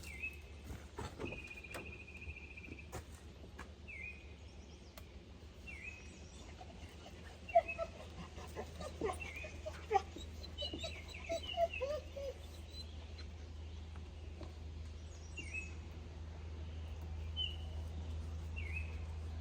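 Small birds chirping, a short chirp repeated every second or two with a brief trill near the start, over a steady low hum, with a few sharp clicks in the middle.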